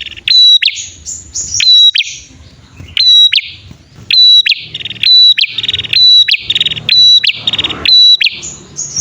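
Prenjak (prinia) pair calling: loud, sharp chirps repeated every half second to a second, mixed with fast buzzy trills. This is a lure call of male and female prenjak.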